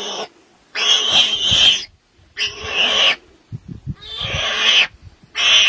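An animal giving loud, harsh cries over and over, about one every second and a half, each lasting roughly a second.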